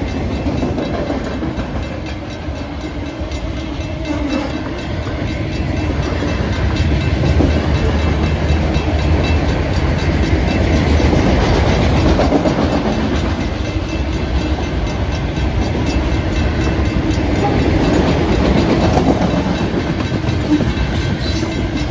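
Freight cars of a Norfolk Southern manifest train rolling past slowly: a steady rumble of steel wheels on rail with clickety-clack over the joints, growing louder about six seconds in.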